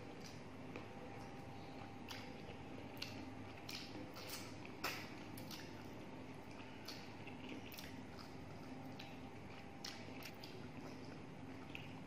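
Close-up wet chewing and lip-smacking of a person eating rice and mutton curry by hand: irregular sharp, moist clicks every half second or so over a faint steady hum.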